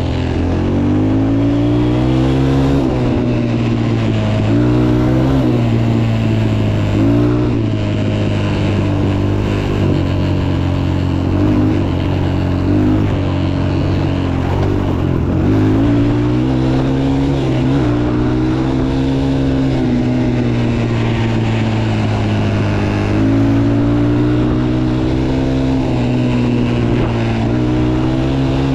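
Motocross bike engine revving up and down as it is ridden, its pitch climbing and dropping every second or two with throttle and gear changes.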